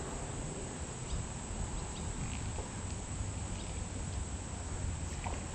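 Steady outdoor ambience: an even hiss with a constant high insect drone, such as crickets, running underneath.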